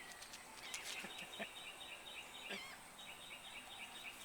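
Faint bird song: a rapid, even run of short high chirps, breaking off about two seconds in for a brief wavering note, then starting again. A few light taps are heard under it.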